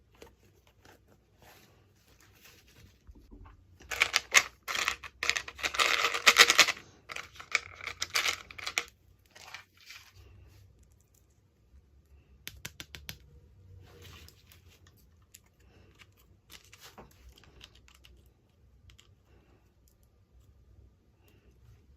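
Hands handling and opening plastic toy packaging: a dense run of rapid crackling clicks from about four to nine seconds in, then scattered light clicks and taps.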